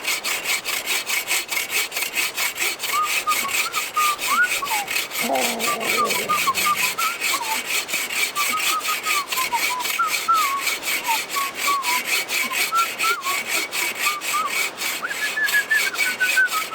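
Hand saw cutting through a cherry log in quick, even back-and-forth strokes.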